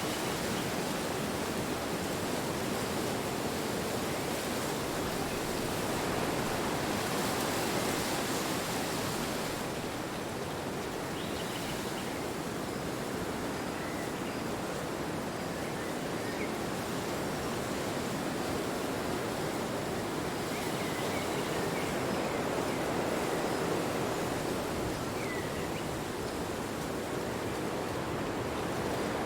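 Wind blowing steadily, a continuous even rush that eases slightly and swells again.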